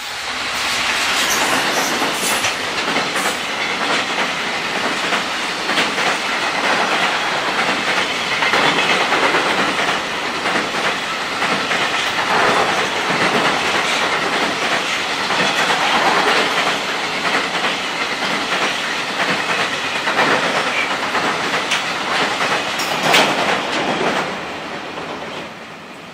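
A JR Freight container train hauled by an EF210 electric locomotive passes close by: a steady rush of steel wheels on rail with a clickety-clack over the rail joints as the Koki container wagons go by. A sharp clack sounds near the end, then the noise fades as the tail of the train draws away.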